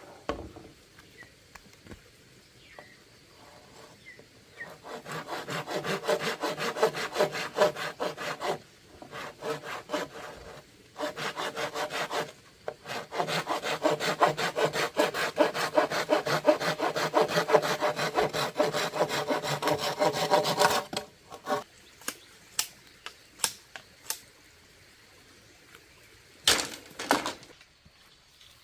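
A hand saw cutting bamboo in fast, even back-and-forth strokes, in three bouts with short pauses between them. It is followed by a few scattered sharp knocks.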